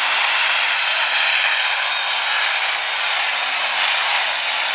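Super stock pulling tractor's turbocharged diesel engine running flat out under load during a pull: a loud, steady roar with a thin high whine on top.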